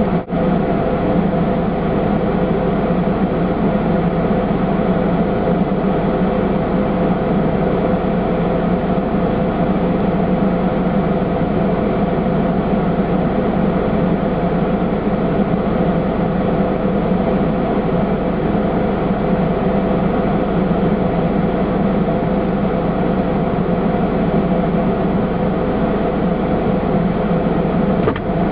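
A vehicle's engine idling, heard from inside the cabin as a steady, unchanging hum with a constant drone.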